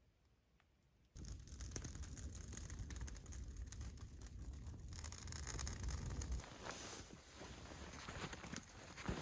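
Rustling and crackling handling noise over a low rumble, starting abruptly about a second in, with a few louder knocks near the end.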